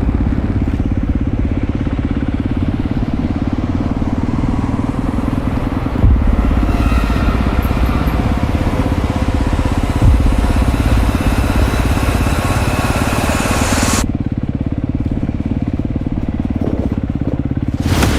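Dirt bike engine running steadily, with two brief jolts about six and ten seconds in. A hiss above the engine cuts off suddenly about fourteen seconds in, leaving the engine alone.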